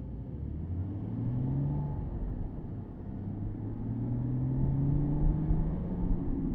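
Porsche Boxster S (987.2) flat-six engine accelerating, heard from the cabin. Its pitch rises, drops at a gear change about two seconds in, then climbs again under a steady road rumble, with another shift near the end.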